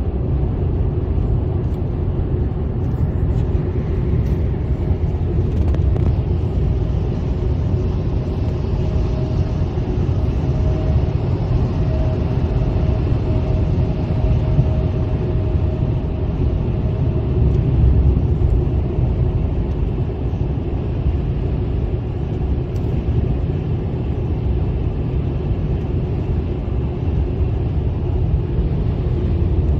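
Car driving at speed: a steady low road and engine rumble, with a faint steady whine in the middle part.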